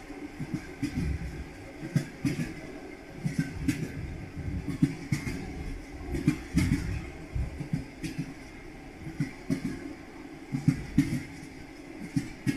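Train wheels clattering over rail joints: groups of low knocks every second or two over a steady rolling rumble.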